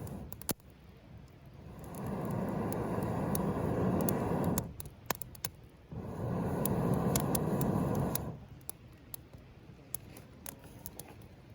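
Campfire crackling with scattered sharp pops, with two long rushes of air a couple of seconds each: breath blown onto the fire to feed the flames.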